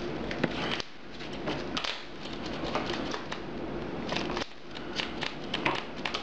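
Trading cards being handled and laid down on a table during play: a string of light, irregular clicks and taps, thickest in the second half, over steady room noise.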